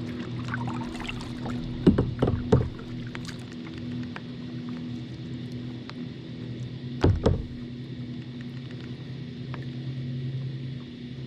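Hollow knocks on a kayak: a quick run of three about two seconds in and a pair about seven seconds in. Under them runs a steady low engine hum.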